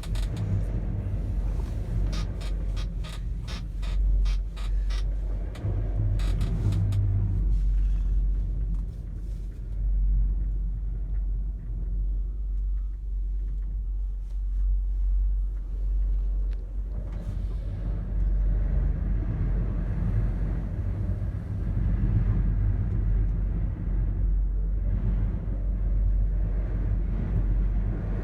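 A low, steady rumble of high wind buffeting a gondola cabin and the microphone, with a run of rapid clicks and clacks during the first several seconds.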